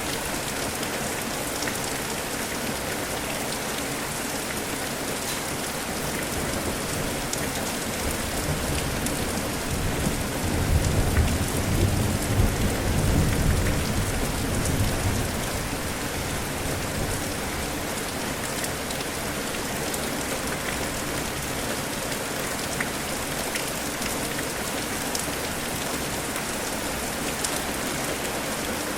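Steady rain falling, with a low roll of thunder that swells about a third of the way in and fades out by about halfway.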